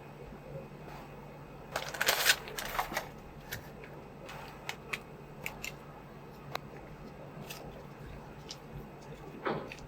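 Plastic figure packaging being handled: a crinkly rustle about two seconds in, then scattered light clicks and taps, and another short rustle near the end.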